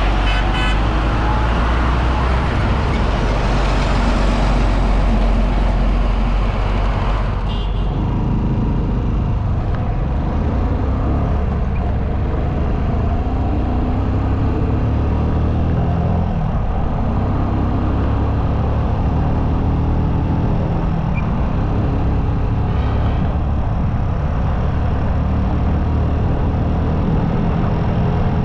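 Motorcycle engine running at road speed under a steady rush of wind and road noise, heard from on the moving bike. The high rush eases about seven and a half seconds in.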